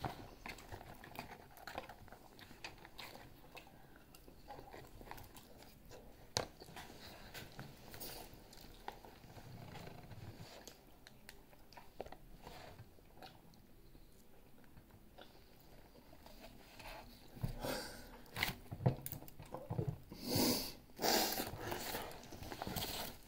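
A person chewing and biting fried food close to the microphone, with small clicks and crackles throughout. Paper wrapping and a cardboard box crinkle louder in the last few seconds.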